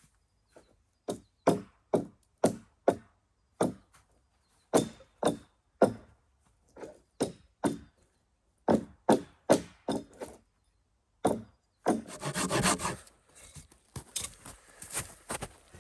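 Hand saw cutting through wood in short back-and-forth strokes, with brief pauses between runs of strokes. Near the end the strokes run together into faster, continuous rasping.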